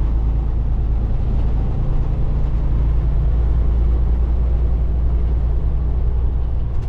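Steady engine and road drone inside a semi-truck's cab while driving.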